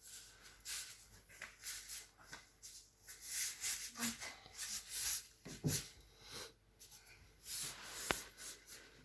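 Wood fire crackling in a fireplace: irregular pops and crackles, with one sharp crack near the end.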